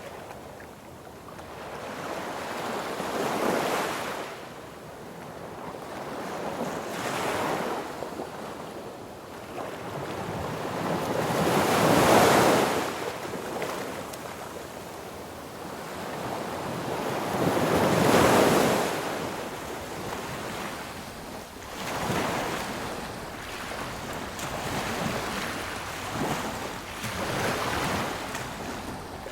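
Sea waves breaking on a beach, a rushing noise that swells and ebbs as each wave comes in. Two waves, about 12 and 18 seconds in, are the loudest, with smaller ones between.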